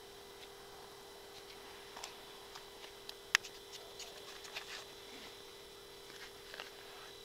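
A steady low hum with scattered light clicks and taps; one sharper click comes a little before the middle.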